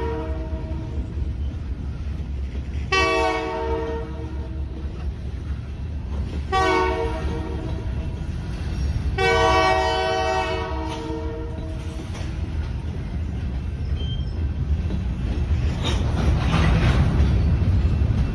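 Freight train passing through a grade crossing, its locomotive air horn sounding three blasts in the first ten seconds, the last the longest, over the steady rumble of the cars. Near the end the rumble grows louder as the wheels clatter over the crossing.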